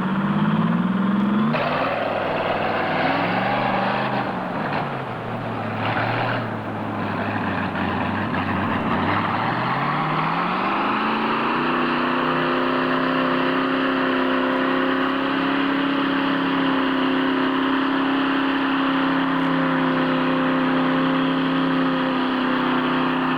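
A mud truck's engine revving at shifting speeds, dropping low, then climbing smoothly from about nine seconds in to high revs held steady.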